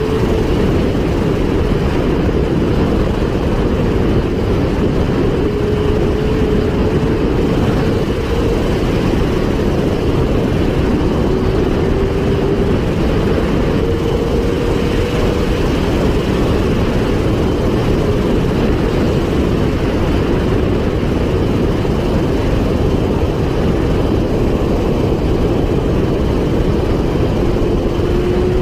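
Steady, loud noise of a vehicle moving at speed, with heavy rumble and wind noise. A faint engine note climbs slowly in pitch several times.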